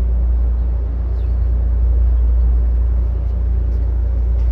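Steady low rumble of a tour riverboat's engine running underway.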